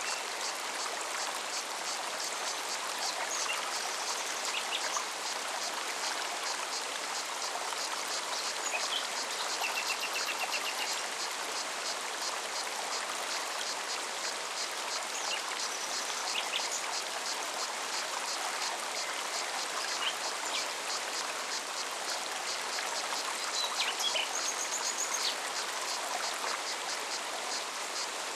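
Forest stream running steadily, with a cicada's rapid, regular pulsing song high above it and a few short bird chirps and a brief trill.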